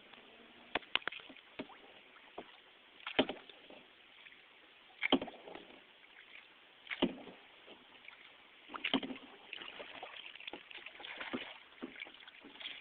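Kayak paddling: the paddle blades dip and pull through the water, giving sharp splashes and knocks every one to two seconds over a faint wash of moving water, with busier splashing from about nine seconds in.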